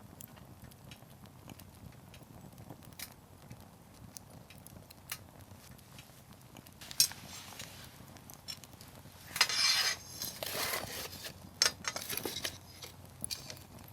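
Wood fire crackling, with scattered sharp pops of burning firewood and a louder, denser stretch of crackling and hissing in the second half.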